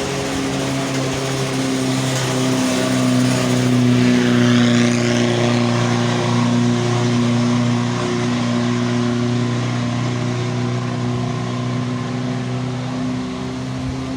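A vehicle engine running with a steady drone, swelling louder about four seconds in and then easing off.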